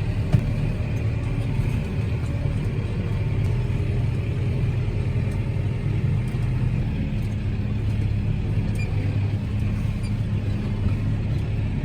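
Diesel engine of a New Holland TV140 bi-directional tractor running steadily, a low, even drone.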